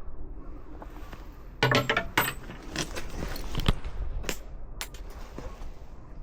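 A quick cluster of sharp clinks and knocks about one and a half seconds in, followed by a few single clicks spaced out over the next few seconds.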